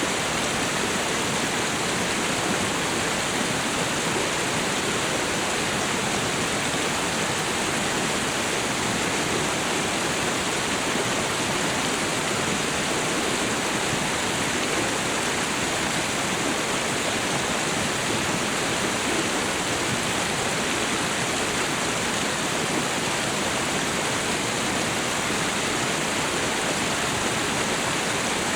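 Waterfall and river water rushing steadily, an even, unbroken roar of falling and flowing water.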